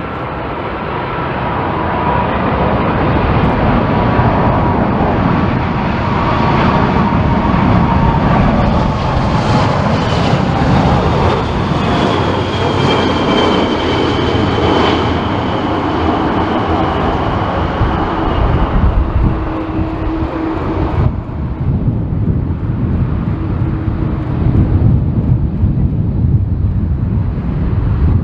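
Boeing 747 jet engines roaring as the jumbo flies low past on approach, growing louder over the first few seconds, with a whine that slowly falls in pitch. The higher part of the sound drops away suddenly about three-quarters of the way through, leaving a low rumble.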